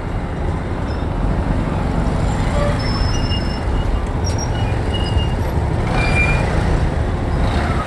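Steady, dense road noise of a motorbike riding through city traffic, heaviest in the low rumble. A few short, faint high tones come and go.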